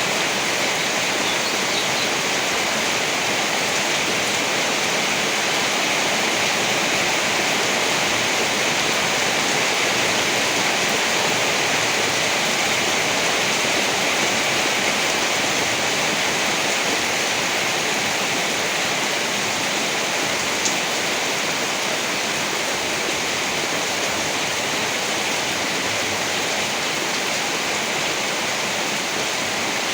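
Steady heavy rain, an even, unbroken hiss, with one sharp tick about two-thirds of the way through.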